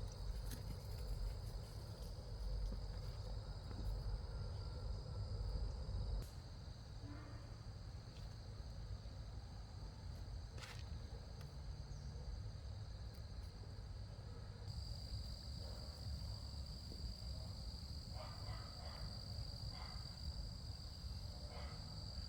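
Insects chirring steadily in one unbroken high-pitched note, over a low rumble, with a few faint clicks and knocks.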